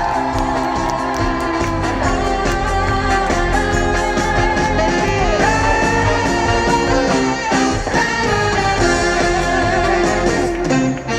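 Live band playing the instrumental break of a trot song: a lead melody in held notes over a steady beat.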